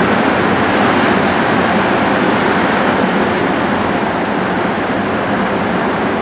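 Heavy rain pouring down in a thunderstorm downpour, a steady, even hiss with no thunderclap.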